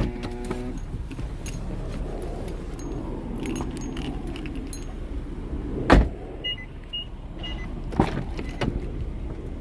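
Power window motor of a 2020 Nissan Maxima running as the glass lowers, then a sharp loud thump about six seconds in, followed by a few short electronic beeps and some clicks.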